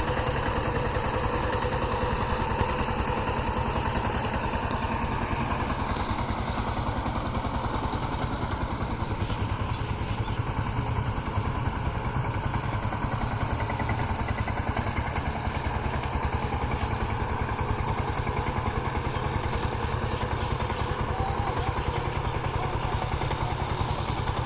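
Power tiller's single-cylinder diesel engine running steadily with a rapid, even chugging; the sound cuts off abruptly at the end.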